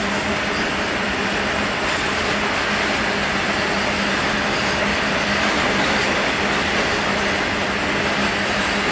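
Long freight train of covered goods wagons running past: a steady rumble of wheels rolling on the rails.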